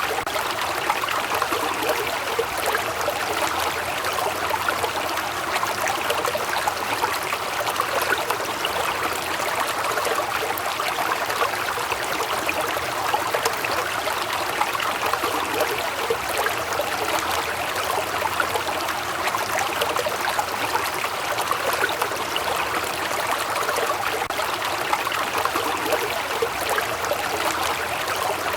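Waterfall, water falling and splashing steadily, with no pauses or single events.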